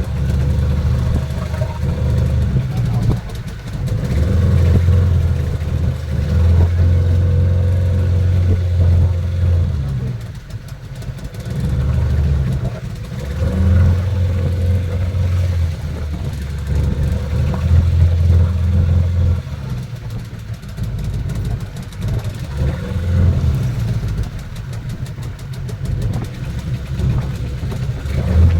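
Glass-bottom boat's engine running: a low rumble with a steady hum that swells and dips every few seconds.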